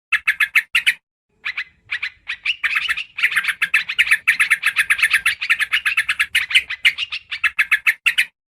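Trucukan (yellow-vented bulbul) calls played as a bird lure: rapid trains of short chattering notes, first in a few brief bursts with silent gaps, then a dense unbroken run of chatter from about two and a half seconds in until near the end.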